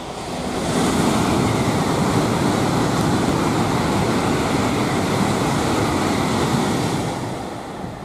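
N700A Shinkansen high-speed train passing at speed: a steady rushing noise of wheels and air that swells within about the first second, holds, and fades over the last second as the train draws away.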